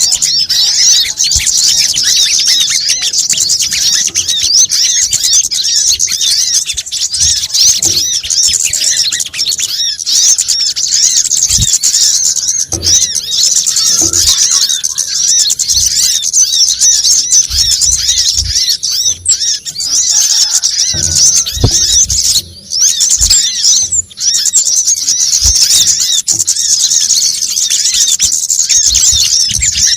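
Sunbirds, including brown-throated sunbirds (kolibri kelapa), chattering in a dense, noisy flock: many high, squeaky, fast-gliding call notes overlap without a break. It is a recording made to lure these birds.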